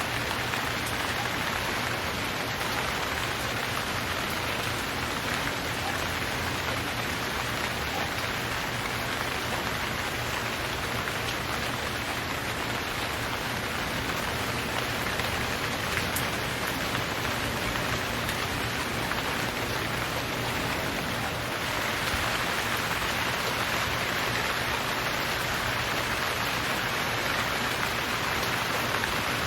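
Steady rain falling, a dense even patter of raindrops on surfaces, growing a little heavier about three quarters of the way through.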